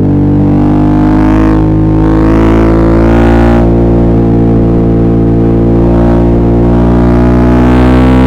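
Suzuki V-Strom 650's V-twin engine running loud under way, its pitch climbing slowly as the bike gathers revs.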